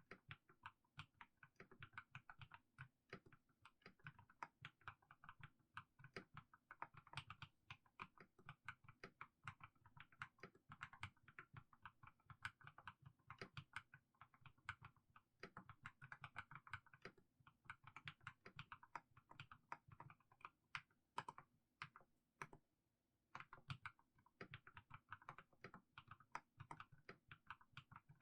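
Mechanical keyboard with fully lubed Haimu Sea Salt switches being typed on slowly: a quiet, steady stream of soft keystroke clacks, with a brief pause about three-quarters of the way through.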